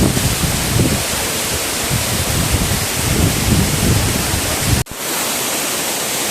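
Waterfall's rushing water: a steady, loud roar that drops out for an instant about five seconds in, with less low rumble afterwards.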